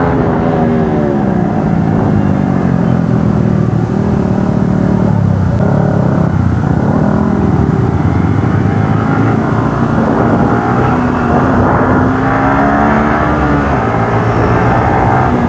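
Motorcycle engine and exhaust under way, its pitch dropping in the first couple of seconds and then rising and falling again several times as the bike speeds up and slows through the corners.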